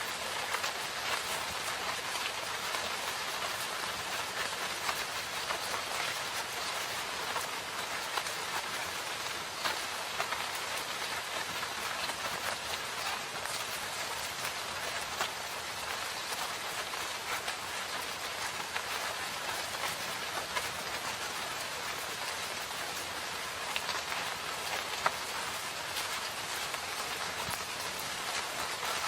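Steady rain falling in a forest, an even hiss with scattered individual drops ticking on surfaces, one sharper drop hit near the end.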